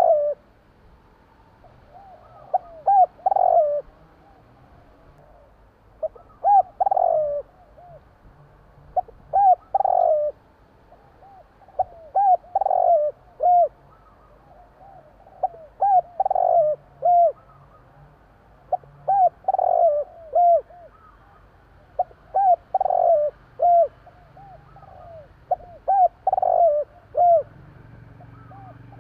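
Spotted dove (tekukur) cooing: a short phrase of several notes, repeated about every three to three and a half seconds.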